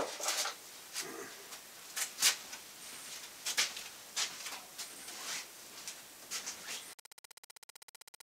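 Plastic garbage bags rustling and crinkling as they are handled, in short irregular bursts. About seven seconds in it cuts off abruptly, replaced by a fast, even pulsing buzz.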